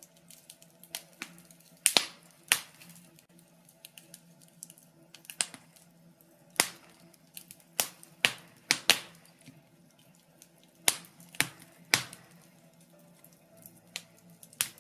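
Birch logs burning in a fireplace, crackling with irregular sharp pops and snaps, several loud ones in quick succession around the middle, over a faint steady low tone.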